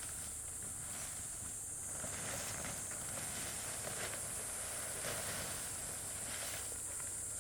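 Steady high-pitched insect drone, typical of crickets or cicadas, with faint irregular rustling beneath it.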